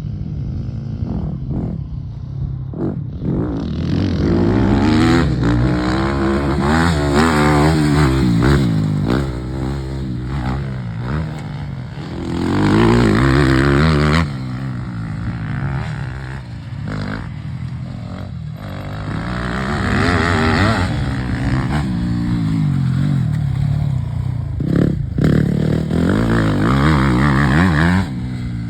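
Yamaha YZ250F four-stroke single-cylinder motocross bike engine revving up and down in repeated surges, its pitch rising and falling with the throttle. The sound drops off sharply about halfway through and again near the end.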